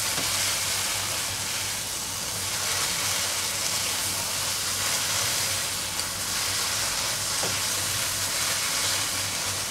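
Onion-tomato masala with fresh coriander sizzling steadily in a non-stick kadhai as a spatula stirs it through.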